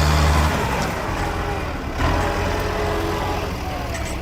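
Tractor engine running loud under working load, its note sagging and then picking up again about two seconds in.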